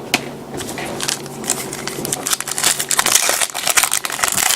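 A trading-card pack wrapper being torn open and crinkled by hand, an irregular crackling that grows louder through the second half.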